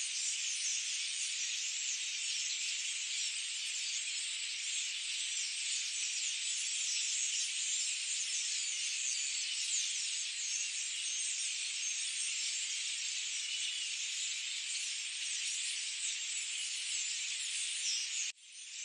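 Dense, continuous high-pitched chorus of many forest birds chirping at once. It drops out briefly about 18 seconds in, then resumes.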